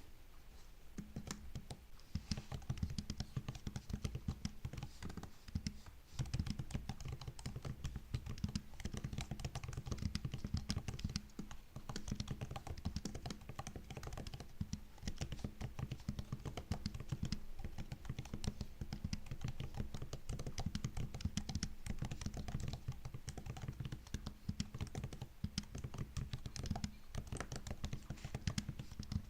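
Typing on a MacBook keyboard: a fast, continuous run of key clicks and taps that begins about a second in, with a couple of brief pauses.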